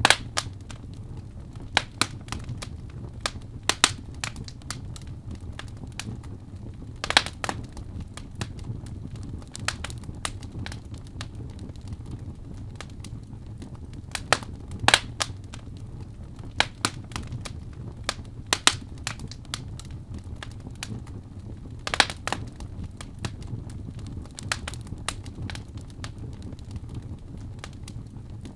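Fire burning in a fireplace, crackling with irregular sharp pops and snaps over a steady low rumble; the loudest pops come about 7, 15 and 22 seconds in.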